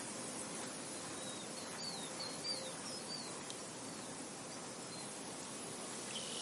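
Steady wind blowing across an open field, with a bird giving a quick string of short high chirps a couple of seconds in.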